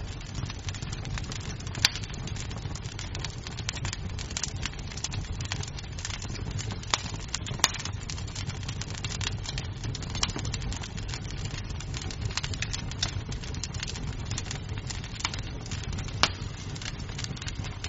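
Wood fire crackling in a fireplace: a steady low rumble of flames under many small crackles, with three louder, sharper pops of the burning wood spread through.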